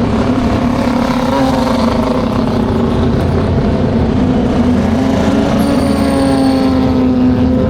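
Racing motorcycle engines at a MotoGP circuit: a loud, continuous engine drone whose pitch rises about six seconds in.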